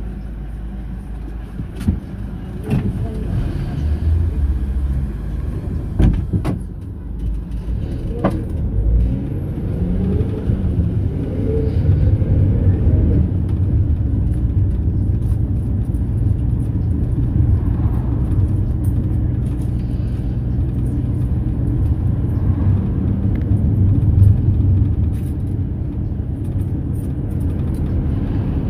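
Mercedes-Benz Sprinter minibus driving, heard from inside: steady engine and road rumble with a few sharp knocks and rattles in the first eight seconds. The engine note rises and falls around ten seconds in, then the running noise builds gradually.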